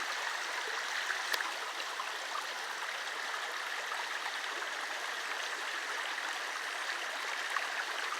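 Steady rushing and gurgling of a rainforest river flowing over rocks, the La Mina river.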